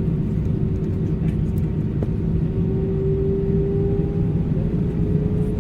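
Steady low engine rumble heard from inside a vehicle, with a faint steady whine that swells slightly a few seconds in.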